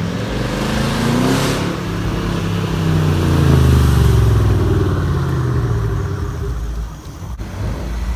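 A car engine revs up, holds at its loudest for a second or two around the middle, then drops back down.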